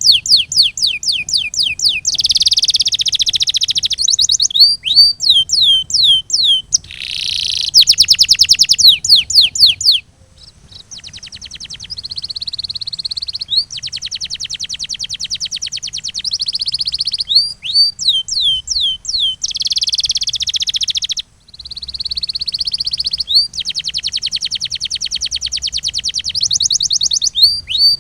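Canary singing: phrases of repeated falling whistle notes alternate with fast rolling trills, each phrase lasting a second or two. The song dips briefly about ten seconds in.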